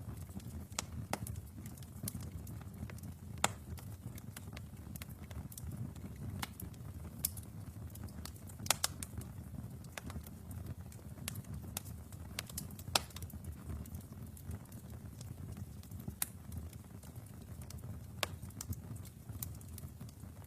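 Wood fire burning in a fireplace: a steady low rumble of flames with irregular sharp crackles and pops from the burning logs, a few of them louder than the rest.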